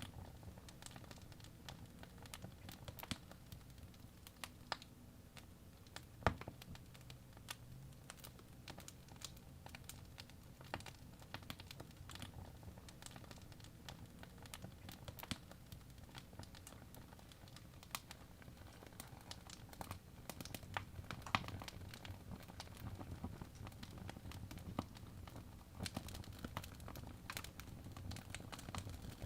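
Wood fire burning in a fireplace, crackling with irregular sharp pops and snaps over a low steady rumble of the flames; the loudest pops come about six seconds in and near the middle.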